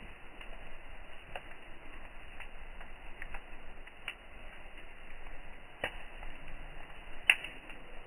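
Wood campfire crackling: scattered sharp pops every second or so over a faint hiss, with one louder crack near the end.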